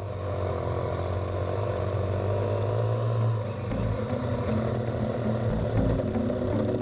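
Motorcycle engine running steadily with a low drone while riding.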